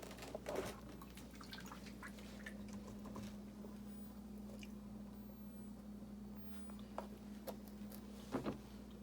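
River rocks being pressed and worked into wet mortar, with soft squishing and a few sharp clicks of stone on stone, the loudest near the end.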